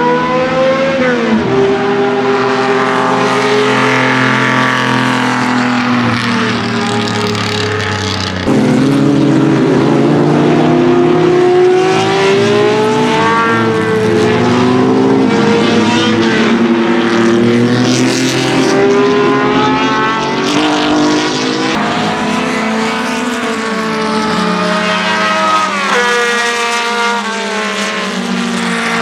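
Historic 1.5-litre Formula One racing engines at full racing revs, led by the Ferrari 1512's high-revving flat-12. The engine pitch climbs and falls over and over, with sharp drops at gear changes or as cars pass, and at times more than one engine is heard at once.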